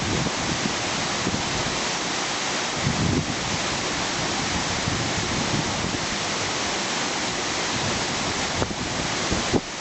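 Waterfall rushing steadily, with a few brief low rumbles from wind on the microphone.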